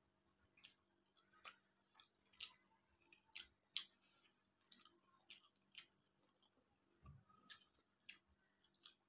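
Quiet wet mouth clicks and smacks of a person chewing a mouthful of rice and ilish fish curry, irregular at about one or two a second.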